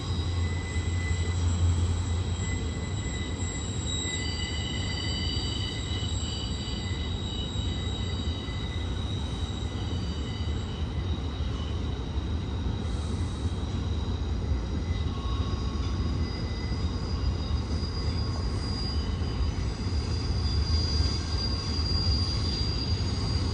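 Freight cars of a BNSF intermodal Z train rolling past on a curve. The wheels on the rail make a steady low rumble, with several thin, high-pitched wheel squeals that come and go.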